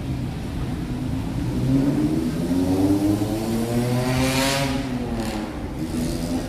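A motor vehicle's engine passing in street traffic, its pitch rising and then falling, with a brief hiss about four and a half seconds in.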